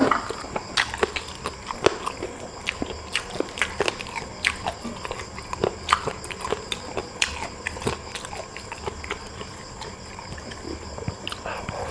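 Close-up eating sounds: a person biting and chewing food, a dense, irregular run of sharp clicks and wet smacks.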